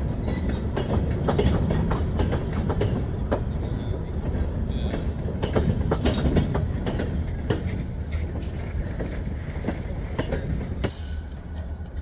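Freight train of tank cars rolling past, its steel wheels clicking irregularly over rail joints above a steady low rumble. It grows quieter near the end.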